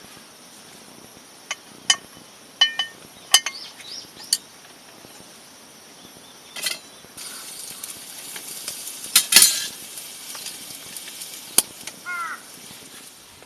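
A series of sharp, ringing clinks, as of metal or glass knocking together, followed from about seven seconds in by a steady hiss with a few louder clatters on top.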